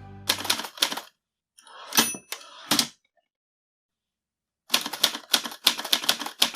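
Typewriter sound effect: rapid clusters of key clacks with a short bell-like ding about two seconds in, a pause of over a second, then another fast run of clacks near the end.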